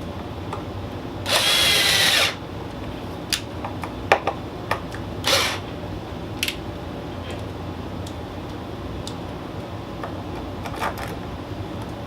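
Power drill driving a screw to mount a small turntable motor. It makes one run of about a second with a slightly rising whine a little over a second in, then a shorter burst about five seconds in. Scattered clicks and knocks of handling the parts come between, over steady background noise.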